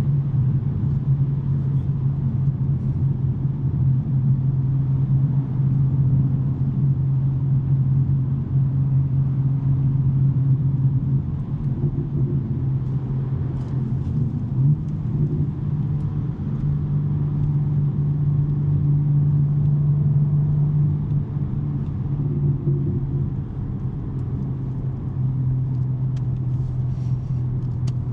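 BMW M3 G80's twin-turbo straight-six, with a non-resonated J-pipe exhaust, cruising with a steady low drone. The pitch shifts slightly a little under halfway through and again later on.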